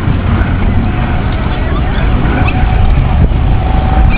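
Coast Guard HH-65 Dolphin helicopter flying by: a heavy, rough rotor thrum with a thin steady whine above it, growing a little louder toward the end.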